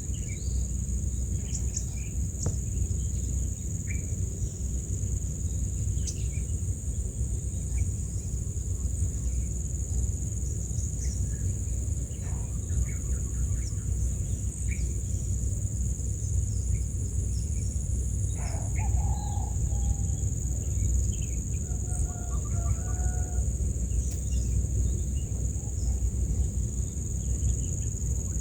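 Outdoor summer ambience: a steady, high-pitched insect drone over a low, constant rumble, with scattered short bird chirps. Toward the end, a few lower, longer bird calls come in.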